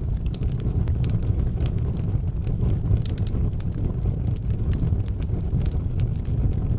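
Fire burning in an outdoor fireplace, crackling with frequent small snaps and pops over a steady low rumble.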